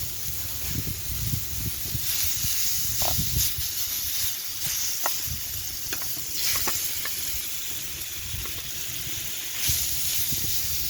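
Marinated chicken pieces sizzling in hot oil in a pan over a campfire: a steady hiss with scattered pops and spits.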